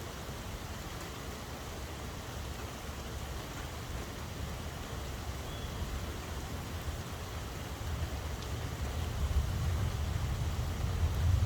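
Steady rain falling, an even hiss, with a low rumble that builds louder over the last few seconds.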